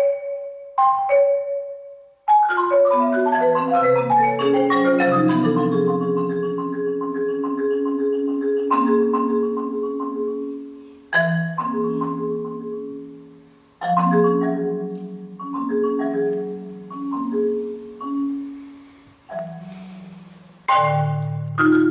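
Solo marimba playing slow, sustained low chords with a falling run of notes near the start. Several phrases die away into short gaps before the next chord is struck.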